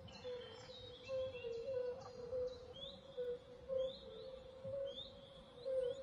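Faint outdoor ambience of small birds chirping: short, quick chirps repeating about once a second, over a soft, wavering low tone.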